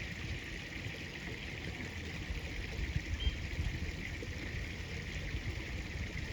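Steady rush of flowing river water, with a low rumble beneath it.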